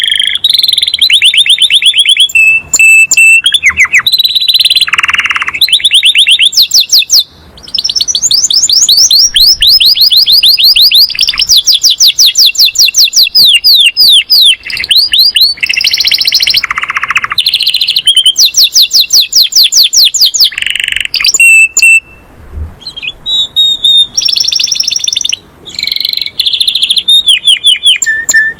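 Canary singing a long song of fast trills, each a rapid run of repeated notes, with brief pauses about seven seconds in and again near the middle-end.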